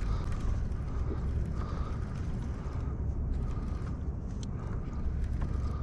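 Fishing reel being cranked, its gears clicking and whirring, while a hooked fish is being reeled in, over a steady low rumble.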